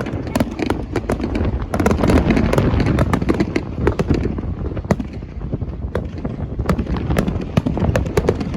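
Fireworks going off in quick succession: a dense run of sharp bangs and crackles.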